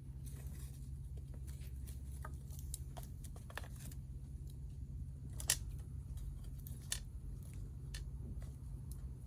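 Wood fire crackling: scattered sharp snaps and pops, the loudest about five and a half seconds in, over a steady low rumble.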